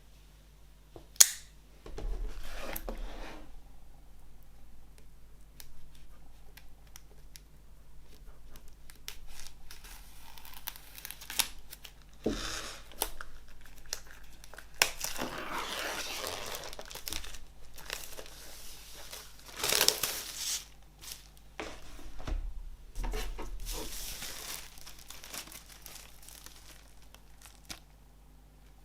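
Vinyl record packaging being unwrapped by hand: wrapping crinkling and tearing in irregular bursts, with a sharp click about a second in.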